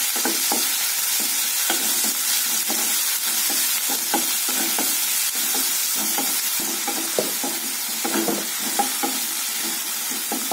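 Chopped onion, tomato, garlic and curry leaves sizzling in hot oil in a non-stick kadai, a spatula stirring and scraping the pan in quick, irregular strokes, as the tomato is sautéed until soft.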